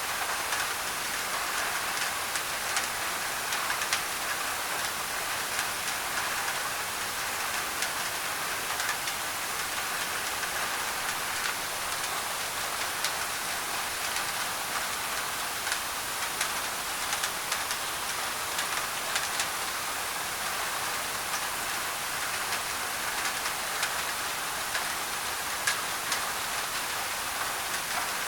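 Steady heavy rain on a thin tin roof, a dense hiss with many individual drops ticking sharply on the metal, layered with white noise.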